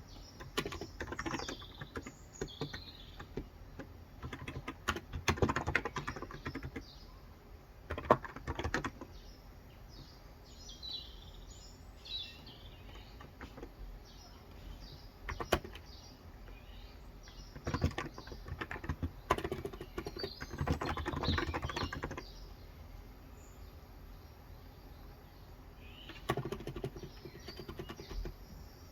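Typing in bursts on a Cox Endeavor 35g electro-capacitive (Topre-style) tenkeyless keyboard: quick runs of key strokes a second or two long with pauses between. Birds chirp in the background at several points, most clearly near the start, about halfway through and at the end.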